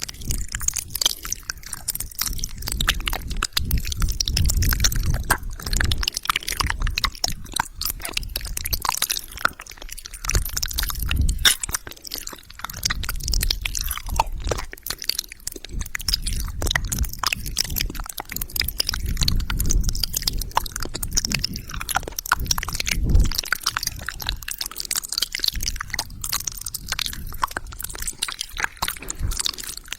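Wet mouth sounds close to the microphone: a dense, irregular run of clicks, smacks and tongue noises, with now and then a low swell underneath.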